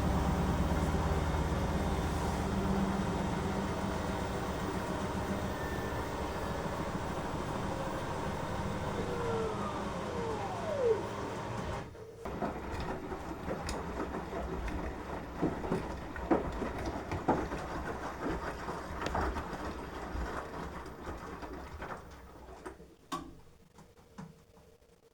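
Beko washing machine winding down from a spin: the motor and drum hum fade and whine downward in pitch, then the motor cuts off about halfway through. The drum coasts to a stop with scattered clicks and knocks that die away to near quiet.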